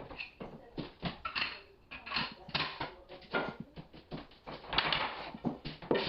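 Hardwood flooring boards being handled and fitted: irregular wooden knocking and clicking, several a second, with a short scraping stretch near the end.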